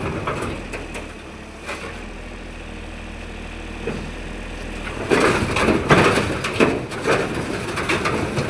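Sany SY35 Pro mini excavator's diesel engine running steadily, with a burst of irregular knocking and crunching from about five seconds in.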